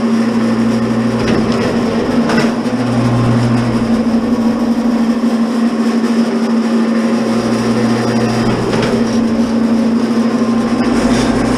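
Commercial electric wire stripper running with a steady hum, its lower drone swelling and fading as wire is fed through, with a few sharp clicks and knocks.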